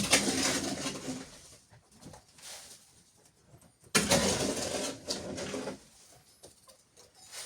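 Livestock bleating: two harsh calls, each about a second and a half long, one at the start and one about four seconds in.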